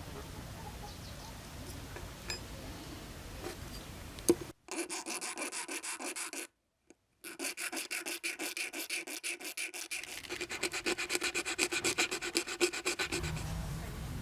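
Rapid, even back-and-forth rubbing strokes, about five a second, starting about four and a half seconds in, with a brief break, of a file or abrasive working the lure.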